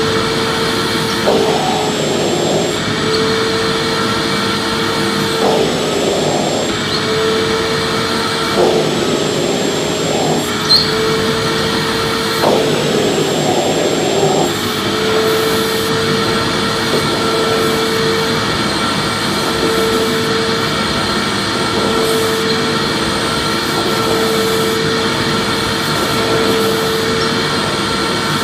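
Vacuum cleaner running continuously: a steady motor whine over rushing air. In the first half the air noise surges rougher for a second or two about every three to four seconds, then the sound runs even.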